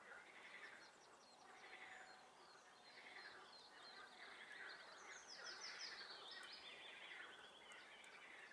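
Faint chorus of swamp frogs calling, with calls repeating about once a second. A songbird sings a quick, falling trill about midway through.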